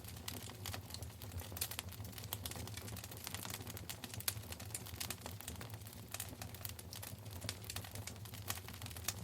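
Wood fire in a fireplace crackling steadily, with many sharp irregular pops and snaps over a low steady rumble.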